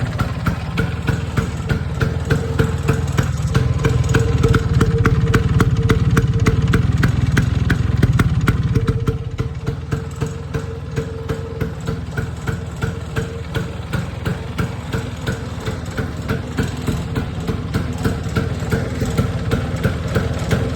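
1973 Vespa Sprint's two-stroke single-cylinder scooter engine running at idle after a year standing, with a regular beat about twice a second. It runs a little faster and louder for several seconds, then drops back to idle about 9 seconds in.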